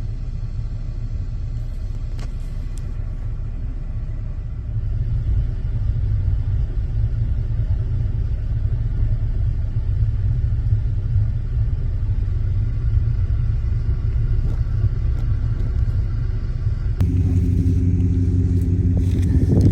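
Jeep engine running with a steady low rumble as it is driven. It gets louder about five seconds in, and near the end it changes to a higher, more tonal drone under more load.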